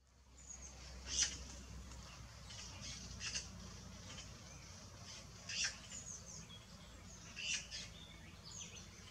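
High-pitched bird calls: short, sharp peeps about every two seconds, with fainter thin chirps and brief glides between them, over a low steady hum.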